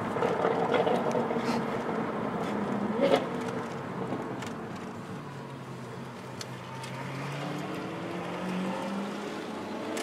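Car engine noise heard inside a car's cabin, with a short loud blip about three seconds in. From about halfway on, the engine note rises steadily as the cars accelerate.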